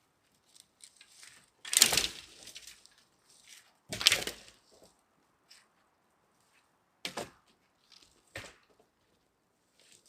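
Sharp knocks and cracks of wood being struck, two loud blows about two and four seconds in, then two lighter ones later.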